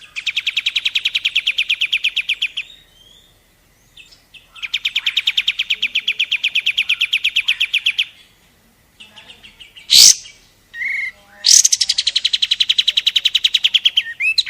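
Kapas tembak songbird trilling: fast, tightly packed runs of clipped notes, about a dozen a second, in three bursts of a few seconds each. Between the second and third bursts there is one sharp upward-sweeping call. This is the rapid 'tembakan' delivery used as masteran training song.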